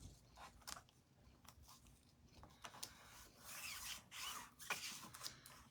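Faint rustling and rubbing of a plastic adhesive stencil sheet being handled and positioned on a chalkboard, with a few light clicks early on and louder rustles in the second half.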